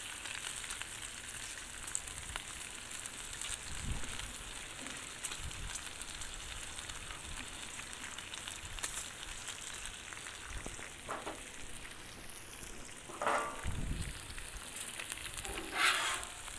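Bacon, sausage patties and frozen shredded hash browns sizzling steadily on a hot Blackstone flat-top griddle, with a few short louder sounds of the spatula working the food on the griddle about 13 and 16 seconds in.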